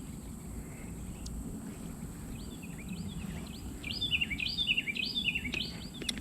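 A songbird calling in a quick series of short chirps, about three a second, starting about two and a half seconds in. Under it run a steady thin high-pitched tone and a low rumbling noise.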